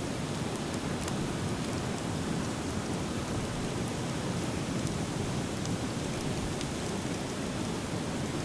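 Driftwood campfire burning, with scattered small crackles and pops over a steady low rushing noise.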